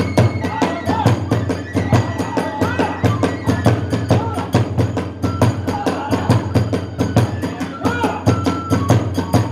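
Kagura hayashi accompaniment: drums and hand cymbals keeping a rapid, even beat while a bamboo flute plays a melody above them.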